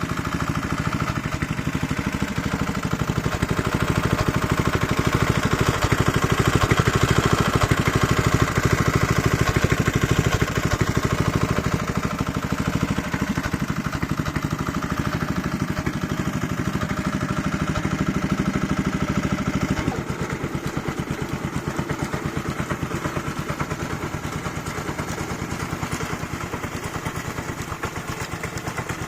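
Honda F600 tiller's 5.5 HP single-cylinder engine running steadily, with a rapid firing beat. It grows a little louder after a few seconds, then drops to a lower, steady level about two-thirds of the way through.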